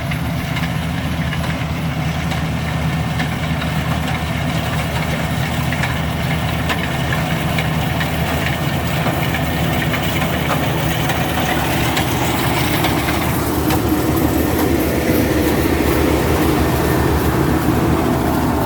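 Rice combine harvester's engine and machinery running steadily, growing somewhat louder about two-thirds of the way through.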